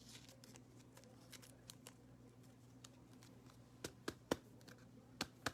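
Trading cards and a plastic card sleeve being handled as a card is sleeved: faint rustling, then several sharp clicks in the last two seconds, over a steady low electrical hum.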